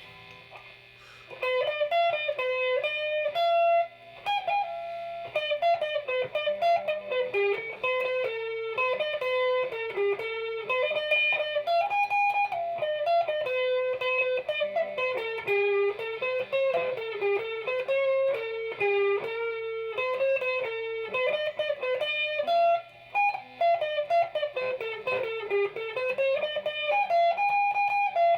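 Background music: a guitar picking a melody of single notes that rise and fall, starting about a second in.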